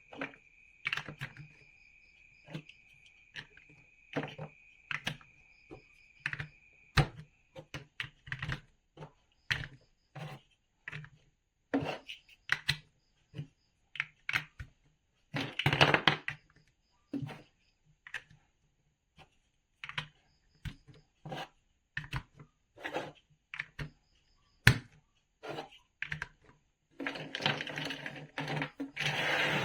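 Plastic building bricks being handled and pressed together: irregular sharp clicks and taps, with longer rattling of loose pieces about halfway through and again near the end.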